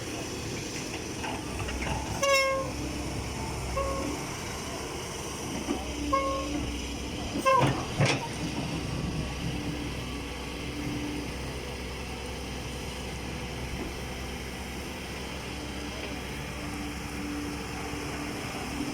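A heavy dump truck's diesel engine running steadily under load, with several short high-pitched tones in the first half.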